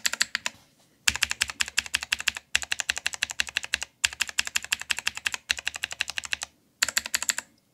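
Lubricated blue clicky mechanical switches on a Game Power Overlord keyboard being pressed rapidly over and over. The pressing comes in about six quick runs of clicks, each around a second long, with short pauses between them, as lubed keys are tested one after another.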